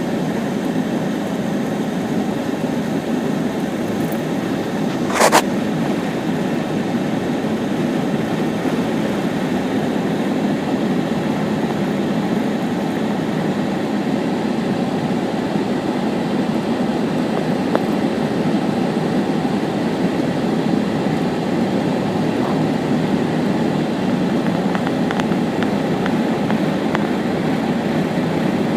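Steady drone of a car heard from inside its cabin while driving, with one sharp click about five seconds in.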